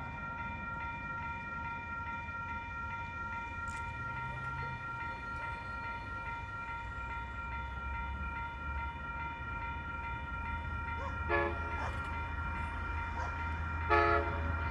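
A train approaching: a steady ringing tone, likely a crossing signal or horn, runs throughout, while the low rumble of the train grows from about halfway. Two short tonal blasts come near the end.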